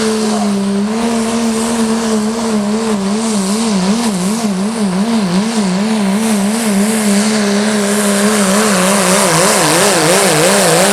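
Modified 1993 Dodge Ram diesel pickup, with its Cummins inline-six, running at full throttle while pulling a sled. The engine note wavers up and down about twice a second over heavy hiss and gets a little louder in the second half.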